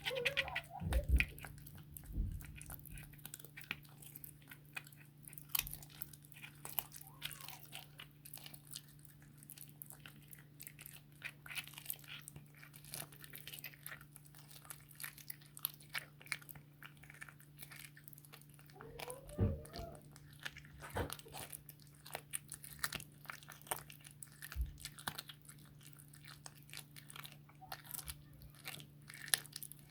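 Blue tortoiseshell cat chewing through a raw chicken back: a long run of irregular wet crunches and cracks as the bones break between its teeth.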